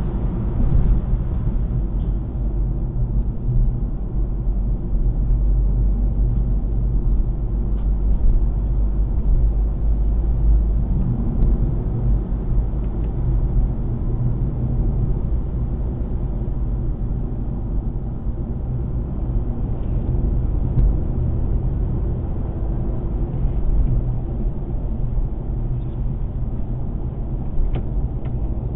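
Steady low rumble of a Volkswagen Golf Mk7, with a few faint ticks scattered through it.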